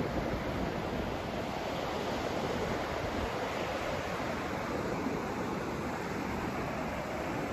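Continuous white-noise sleep track: a steady, even rushing hiss, fuller in the low and middle range than at the top, with no beats or breaks.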